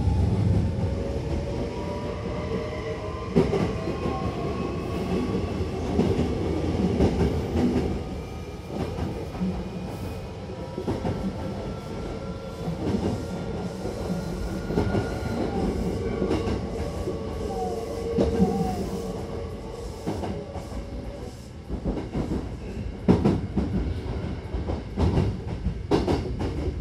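Hankyu Kyoto Line electric train running, heard from inside the car: steady running noise with a faint motor whine gliding slowly in pitch, and wheels clacking over rail joints. A run of sharp knocks comes in the last few seconds as it nears the station.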